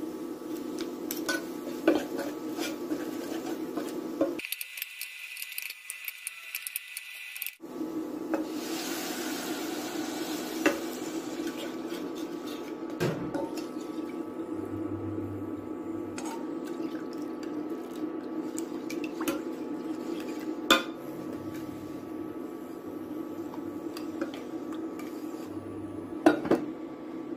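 Cooking at the stove: a metal utensil clinks and scrapes against a pot, with a few sharp clinks over a steady low hum. The sound breaks off briefly a few seconds in.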